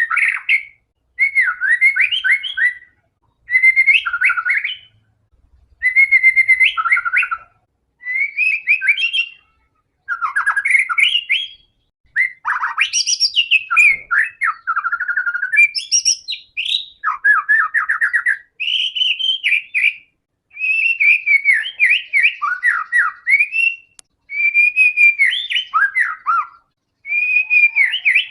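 White-rumped shama (murai batu) in full, steady song: a run of varied whistled phrases, each a second or two long with short pauses between, sliding up and down in pitch.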